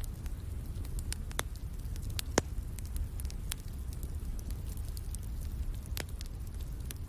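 Wood fire in a fireplace crackling, with scattered sharp pops and snaps over a steady low rumble. The loudest pop comes about two and a half seconds in.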